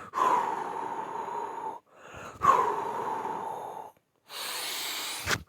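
A man breathing out the whispered 'hoo' of the Taoist spleen healing sound, twice, each breath about a second and a half long, followed by a shorter, hissier breath near the end.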